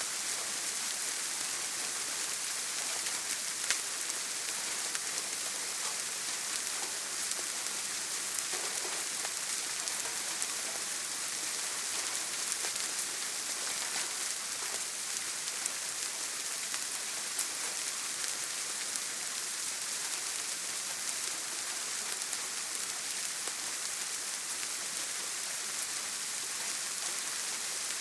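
Steady rain on a tin roof: an even hiss with scattered sharp drop ticks.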